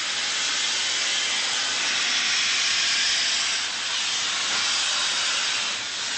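Steam locomotive blowing off steam: a loud, steady hiss with no exhaust beats.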